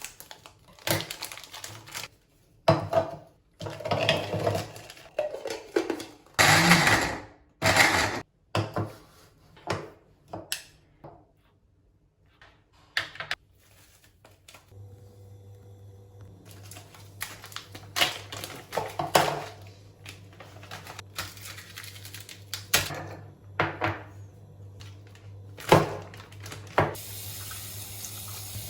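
Water splashing in a kitchen sink in short irregular bursts, with handling noises; a low steady hum comes in about halfway through.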